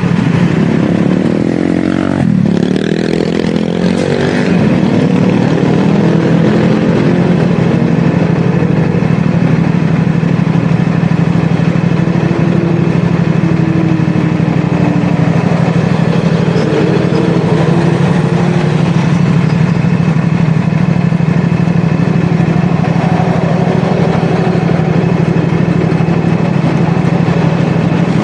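CFMoto 450SR S parallel-twin engine running under way. Its pitch falls and then climbs again about two seconds in, and afterwards it holds a steady note with only small rises and falls.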